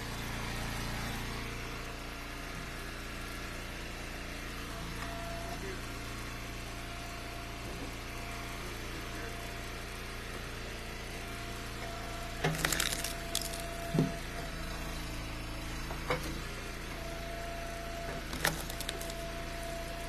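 Eastonmade Ultra hydraulic wood splitter's engine running steadily, with a handful of sharp cracks and knocks of ash firewood rounds splitting and being handled, the loudest a bit past halfway.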